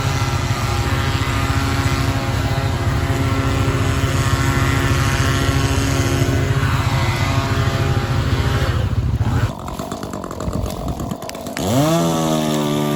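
An engine runs steadily for about nine seconds, then cuts off abruptly. A couple of seconds later a chainsaw revs up and holds at high speed near the end.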